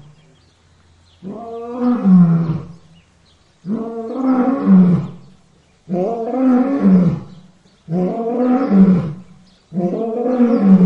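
Lion roaring in a steady bout: five loud roars about two seconds apart, each swelling and dropping in pitch at its end.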